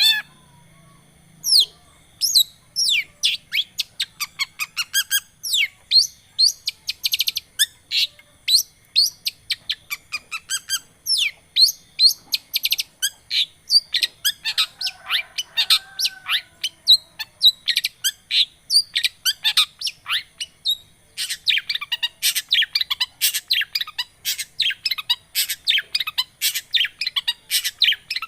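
Long-tailed shrike (cendet) in full song: a fast, varied run of chirps and quick sweeping whistles, with a short lower-pitched phrase about halfway through and a brief pause before a denser burst near the end.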